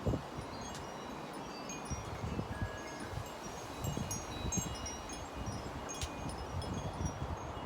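Wind chimes tinkling irregularly in gusty wind, short high ringing notes at many different pitches, over low buffeting of wind on the microphone.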